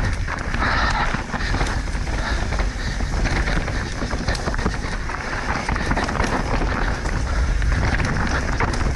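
Mountain bike descending a rocky technical trail at race speed: wind buffeting the microphone as a steady low rumble, tyres on dirt and rock, and a constant rattle of knocks and clicks from the bike over the rough ground.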